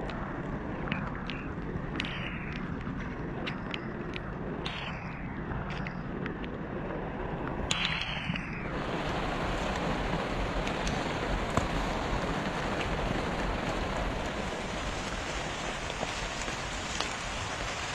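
Rain pattering on shallow water and wet grass, with scattered sharp drips and small splashes. About nine seconds in, the sound changes to a steadier, fuller hiss of rain and running water.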